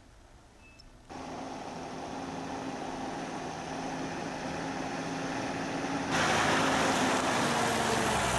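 A motor vehicle's engine running steadily. It comes in suddenly about a second in, slowly gets louder, and steps up louder again near the end.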